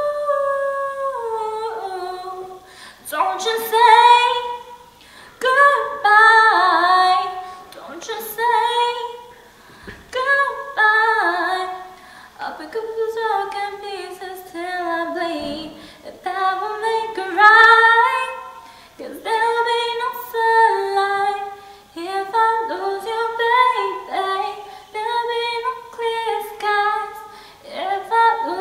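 A woman singing a cappella, one voice with no accompaniment, in sliding melodic phrases of a few seconds each with short breaths between.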